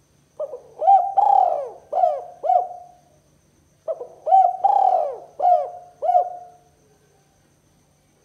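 Spotted dove (tekukur) cooing: two phrases of its call, each a run of short arched coos with one longer drawn coo near the start, the second phrase starting about three and a half seconds after the first.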